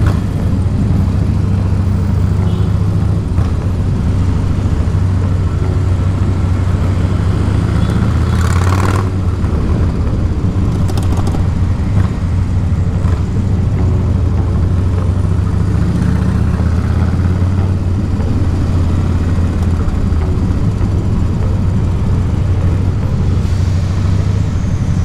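Harley-Davidson Dyna's V-twin engine running steadily while riding, with a short burst of noise about nine seconds in.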